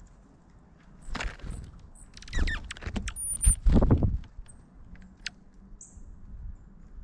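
Several harsh bird calls over a few seconds, with a few thin, high chips in between and low thumps under the loudest calls.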